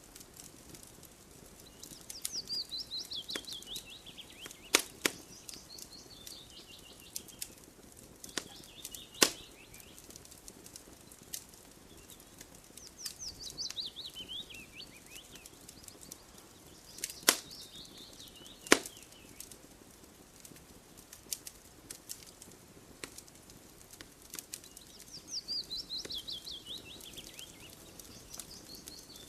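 Campfire crackling, with scattered sharp pops of burning wood, a few of them loud. A songbird sings a quick descending trill three times, about every eleven seconds.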